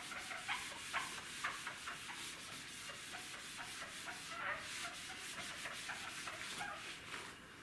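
A board being erased by hand: repeated short rubbing strokes of an eraser across its surface, faint and uneven.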